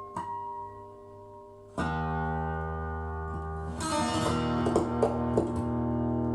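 Instrumental music played back from a vinyl record on a Lenco L30 belt-drive turntable. Held notes fade away, then a full chord comes in about two seconds in, with plucked notes over it a little later.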